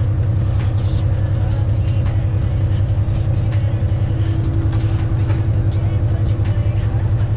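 Diesel semi-truck engine and road noise droning steadily inside the cab while cruising, with background music playing over it.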